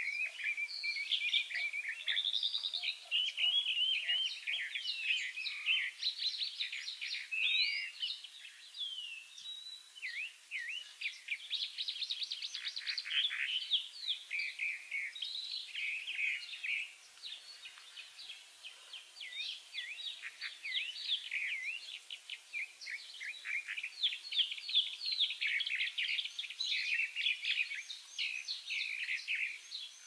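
Several songbirds singing, a continuous chorus of quick high chirps and trills that thins briefly in the middle.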